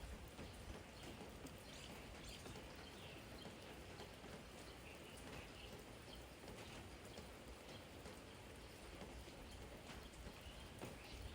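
Faint, steady light rain falling, with scattered single drops tapping and dripping onto a garden jar.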